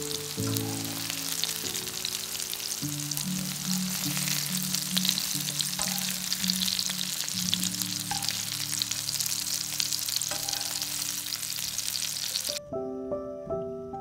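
Zucchini pieces sizzling and crackling as they fry in hot oil in a nonstick frying pan. The sizzling stops abruptly near the end, leaving only light background music.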